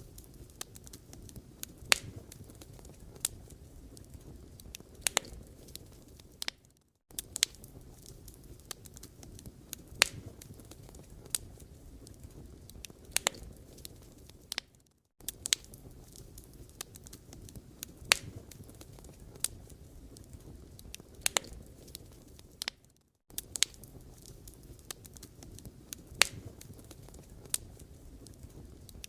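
Wood fire burning, with irregular sharp crackles and pops from the logs over a low steady rumble. The sound drops out for a moment about every eight seconds.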